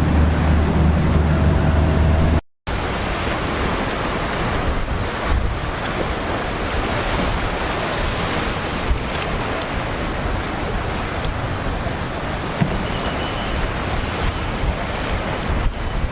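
A boat engine's low, steady rumble, cut off suddenly after about two seconds. Then a steady wash of wind and surf noise follows, with wind buffeting the microphone.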